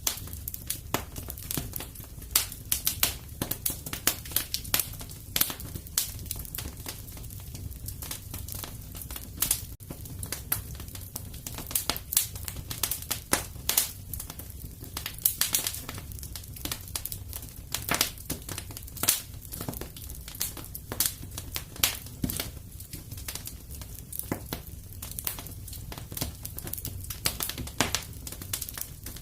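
Fire crackling in a fireplace: dense, irregular pops and snaps over a steady low rumble of the flames.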